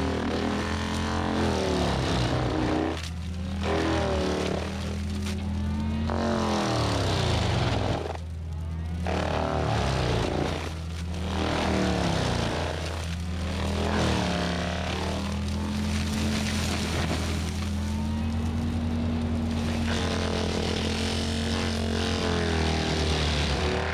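Diesel engine of a Cat 259D compact track loader running at high revs under heavy load. Its pitch sags and recovers again and again, every few seconds, over a steady low drone.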